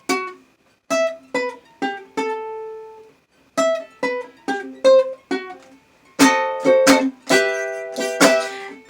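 A plucked acoustic string instrument, played in a bathroom, picks a melody one note at a time, each note ringing out and fading, then switches to strummed chords about six seconds in, with no singing.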